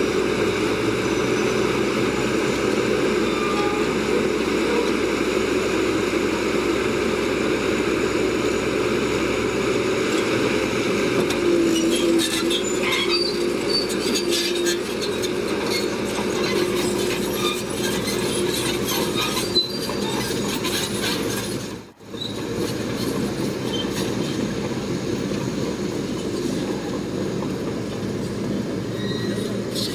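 Shantui crawler bulldozer working: its diesel engine runs steadily while the steel tracks clank and squeal. Irregular metallic knocks bunch up in the middle, and the sound cuts out briefly about two-thirds of the way through.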